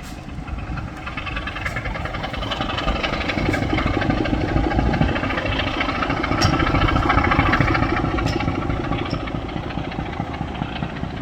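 Heritage diesel locomotive's engine running as the locomotive makes a crossover move, growing louder to a peak about two-thirds of the way through, then easing off.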